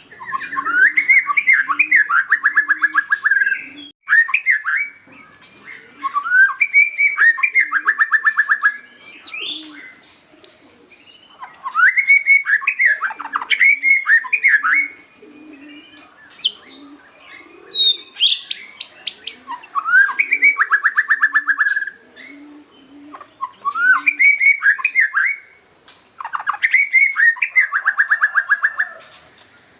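White-rumped shama, a young bird just out of its spotted juvenile plumage, singing its basic song: phrases of a few seconds, each made of rapid repeated whistled notes, with short pauses between them. A steady high tone runs beneath the song.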